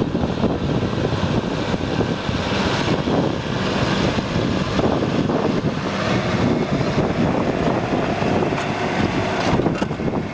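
Foton farm tractor's diesel engine running steadily, mixed with wind buffeting the microphone.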